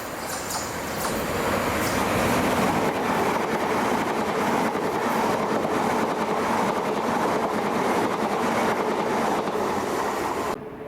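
Electric passenger train running along the track past the platform, a steady rumble and rush of wheels on rails that builds over the first couple of seconds and holds, then cuts off suddenly near the end.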